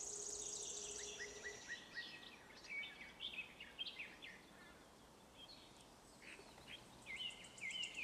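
Faint birdsong: short scattered chirps and whistles, with a thin, high, steady tone in the first second and a half.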